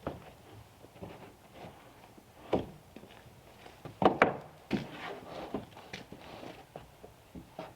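Freshly milled wooden boards knocking and thunking as they are handled and stacked, in irregular knocks with the loudest pair about four seconds in.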